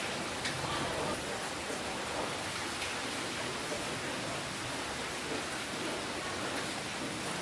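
Steady rainfall, an even hiss with a few distinct drops landing close by.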